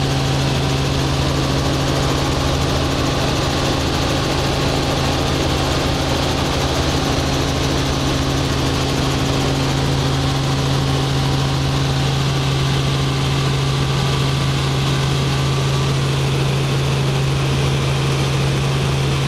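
Helicopter running steadily: a strong, unbroken low hum over a constant rushing noise.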